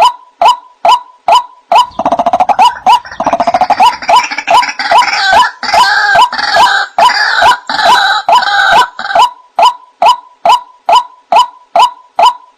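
White-breasted waterhen calling: a steady run of short, clipped notes, about two a second. From about two seconds in until about nine, a louder, busier stretch of overlapping calls breaks in, opening with a quick rattling trill, before the even notes resume.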